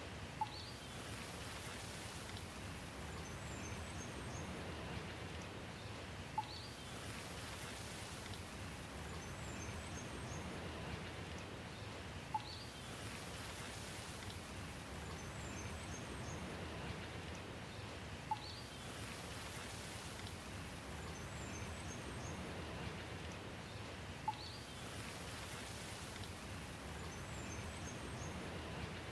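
Steady rain falling, with a few high bird chirps and a short sharp plink that come back about every six seconds in the same pattern, as in a looped rain track.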